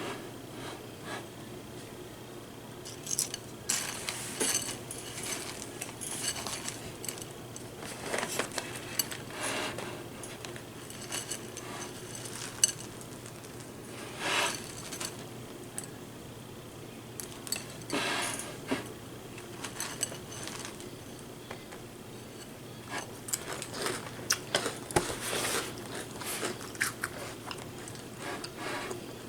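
A spoon clinking against a bowl and crunchy cereal being chewed close to the microphone, in clusters of crunches a few seconds apart with a few sharp clicks between them.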